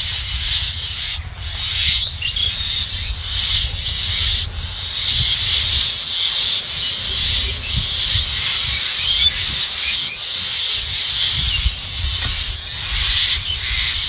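Outdoor ambience: a steady high-pitched hiss with a few faint chirps over it, and low rumbling buffeting typical of wind on the microphone.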